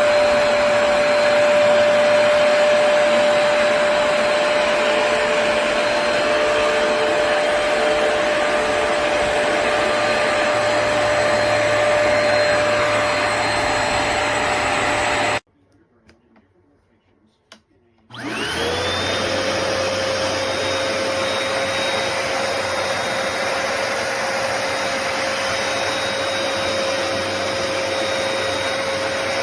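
Hoover PowerDash Pet+ carpet cleaner's motor running with a steady whine. About halfway through it shuts off suddenly, there is a click in the brief quiet, and it starts again, its whine rising as it spins up before settling steady.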